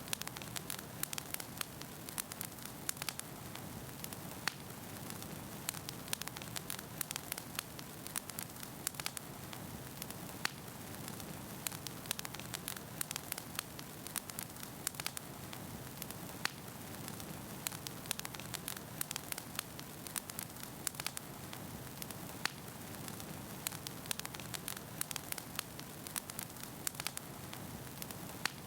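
Wood fire burning in a fireplace, with a steady hiss and frequent, irregular sharp crackles and pops from the burning logs.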